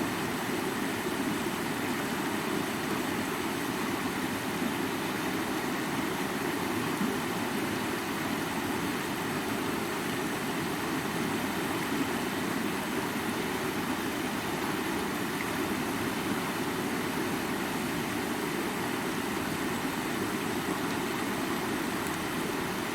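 Creek water flowing steadily over rocks, an even, unbroken rush.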